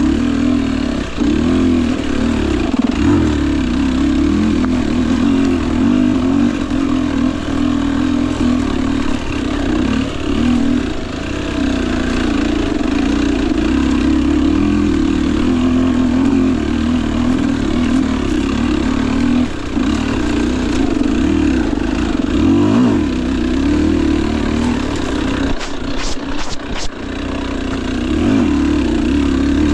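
Single-cylinder two-stroke engine of a Husqvarna TE250i dirt bike running at low revs, the throttle easing on and off. Near the end there are a few sharp clicks.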